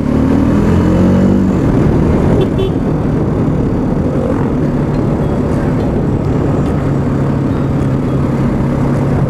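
Bajaj Dominar 400's single-cylinder engine running while riding, over rushing wind and road noise. The engine note climbs a little in the first second or so, then settles into a steady, lower drone.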